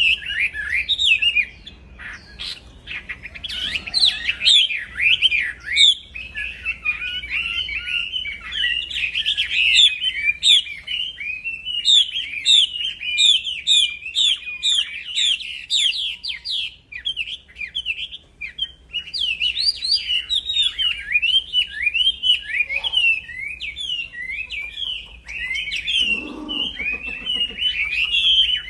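Wambi songbird singing continuously, a rapid stream of high chirped notes with barely a pause.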